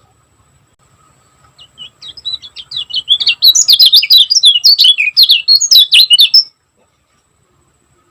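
Kecial kuning, a white-eye, singing a fast, dense chattering song of high chirps. It starts with a few scattered notes, packs them tightly from about two seconds in, and stops abruptly past the middle.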